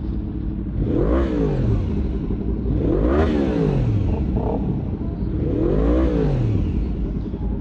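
Sport bike engine revved three times over a steady idle, each rev rising and then falling in pitch, about a second, three seconds and six seconds in.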